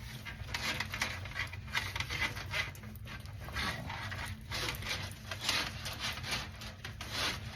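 Irregular scraping and rubbing of a drain snake's cable being worked in the drain pipe, with a faint steady low hum underneath.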